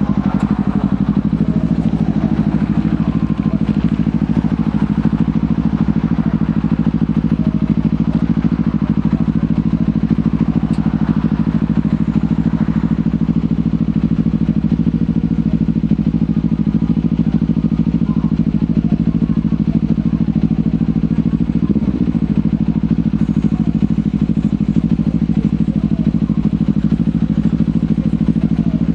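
Kawasaki Ninja 500's parallel-twin engine through a LeoVince GP Corsa Evo exhaust, cruising at a steady engine speed with an even pitch, which wavers briefly about three quarters of the way through.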